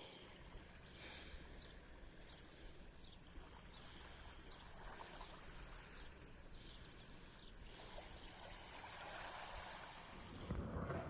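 Faint outdoor background noise: a low, even hiss with a few faint, short high-pitched sounds scattered through it.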